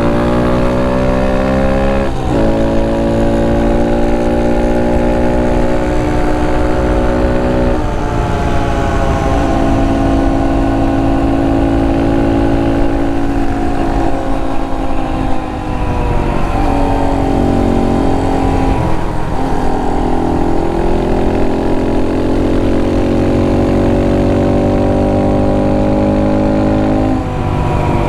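Honda Monkey 125's single-cylinder four-stroke engine running under way: it revs up, then holds and drifts in pitch, with several sudden drops and re-climbs that mark gear changes or throttle lifts.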